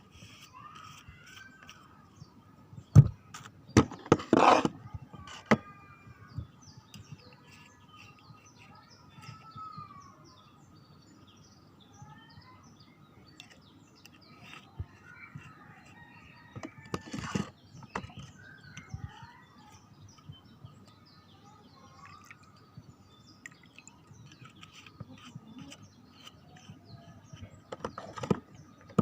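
Small birds chirping on and off, short rising and falling chirps, over a faint steady high tone. A few loud knocks or clatters cut in a few seconds in, about midway, and near the end.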